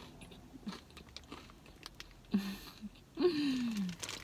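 Close-up mouth sounds of someone chewing a burrito coated in crushed Flamin' Hot Cheetos, with small crunches and wet clicks. Partway through comes a short hummed "mm", then a longer, louder "mmm" of enjoyment that slides down in pitch.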